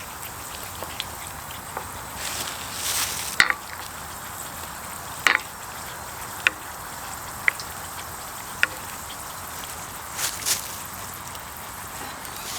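Manti frying in hot oil, a steady sizzle with a handful of sharp pops scattered through it.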